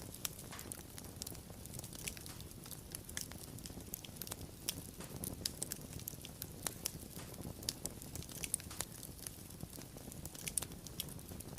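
Wood fire crackling, with frequent irregular sharp pops and snaps over a low steady burning rumble.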